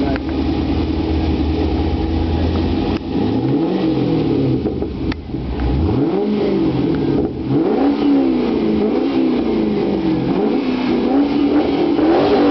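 Vauxhall VXR8's 6.0-litre LS2 V8, stationary, running steadily, then revved repeatedly from about three seconds in, the pitch rising and falling with each blip of the throttle.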